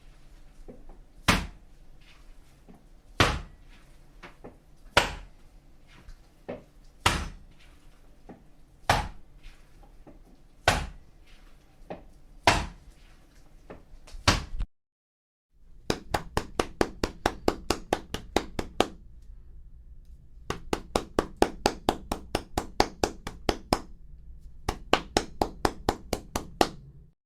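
Raw meat being struck: single heavy wet hits about every two seconds, then, after a short break, quick flurries of several blows a second, as when meat is pounded or chopped.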